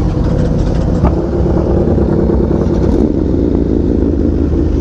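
A motorcycle engine running steadily at an even, unchanging pitch, with a single sharp click about a second in.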